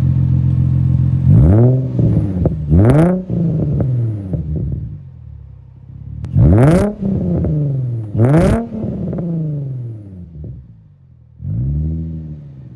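Infiniti G35's 3.5-litre VQ35DE V6 idling through a single-exit straight-pipe exhaust, then revved in quick throttle blips, two pairs and a smaller fifth one. The pitch falls back to idle after each blip.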